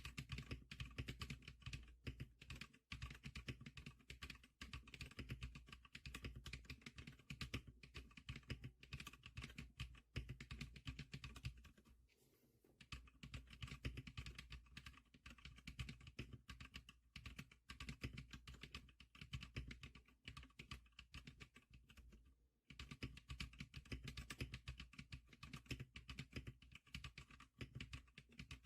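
Quiet, rapid typing on a GKlicker SPK100 wireless mechanical keyboard with Milky Blue switches: a fast run of key clicks, easing off briefly about twelve seconds in and pausing for a moment about twenty-two seconds in.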